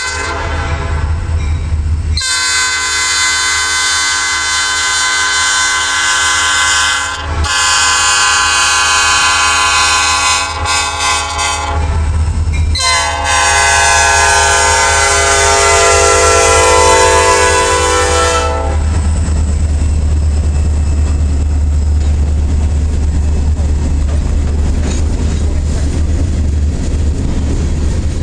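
Horn of an EMD SD40-2 diesel locomotive sounding long, long, short, long, the grade-crossing signal, over the rumble of its engine. After the last long blast the locomotive's diesel engine and the rolling train carry on as a steady low rumble.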